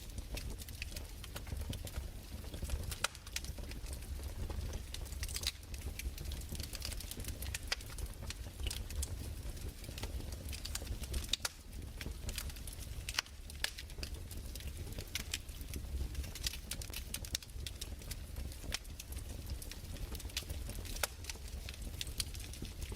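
Fireplace crackling: irregular small pops and snaps, scattered unevenly, over a low steady rumble.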